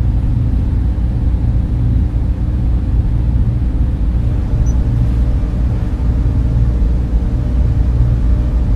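Server room cooling fans running with a steady low hum and whir, most of the sound low in pitch.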